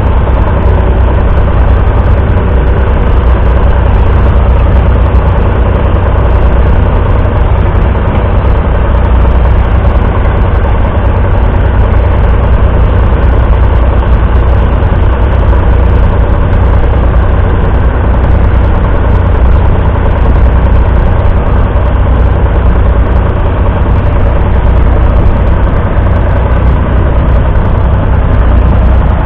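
Ford 4000's 3.3-litre three-cylinder diesel tractor engine running loud and steady, without any change in speed.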